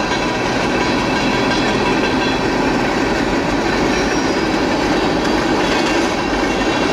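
Norfolk Southern freight train rolling steadily along the track at about 40 miles an hour.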